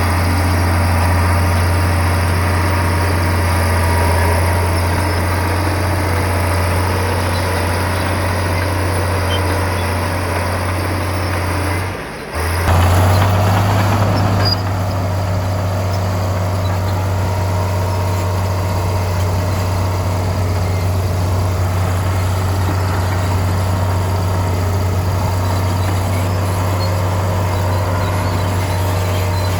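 Bulldozer's heavy diesel engine running with a steady low drone. The sound drops out briefly about twelve seconds in, then carries on.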